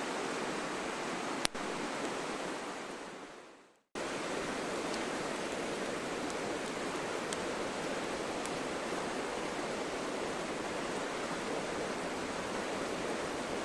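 Steady rushing noise like a flowing stream. It fades away over the first few seconds and cuts back in at about four seconds. There is one sharp click about a second and a half in, and a few faint pops later.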